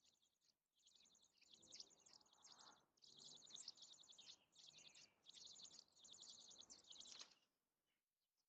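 A small songbird gives faint, rapid, high twittering phrases, one after another with short breaks, and stops a little after seven seconds in.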